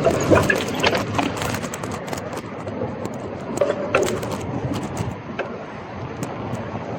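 Gravel bike riding over a rough, wet surface: steady tyre and road noise with a run of rattling clicks in the first second and a half and again about four seconds in.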